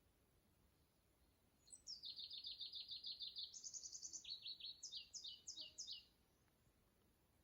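A songbird singing one song of about four seconds. It goes in quick trilled runs of high, downward-sliding notes that step up and down in pitch, then ends with a few slower, separate notes. It starts about two seconds in.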